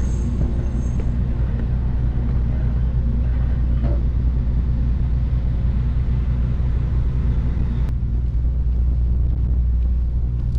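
Car ferry New Kunisaki under way, its diesel engines giving a steady low rumble and hum.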